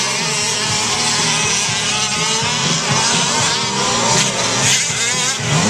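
Several 1/5-scale gas RC trucks' small two-stroke engines racing at once, their whining pitches rising and falling as they rev up and back off.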